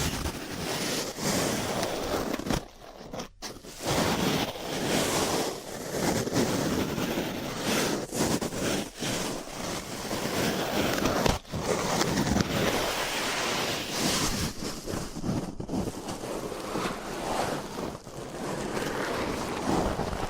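Close-up scratching and rubbing of ear cleaning on a microphone, an ear-cleaning tool working in uneven strokes, broken by a few brief pauses.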